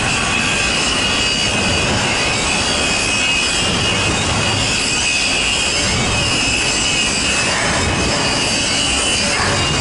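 Long intermodal freight train rolling steadily past, its well cars' wheels squealing in a steady high pitch over the rumble of the wheels on the rails.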